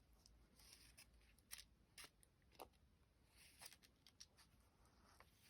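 Near silence, with a few faint, short taps and rustles of small die-cut paper pieces being picked out and handled.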